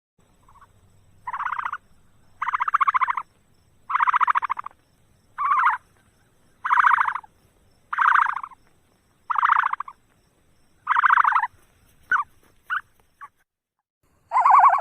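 An animal calling over and over: a run of loud, buzzy, pitched calls, each about half a second long and roughly one every second and a half. About two-thirds of the way in come three short clipped calls, then one more full call near the end.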